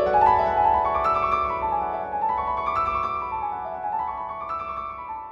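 Solo piano music playing rising arpeggio runs, gradually fading out.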